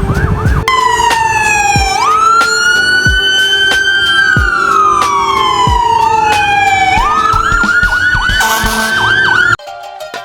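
Emergency vehicle electronic siren, switching from a fast yelp to a slow rising-and-falling wail and back to the yelp, loud over a steady music beat. It cuts off suddenly near the end, leaving quieter plucked-string music.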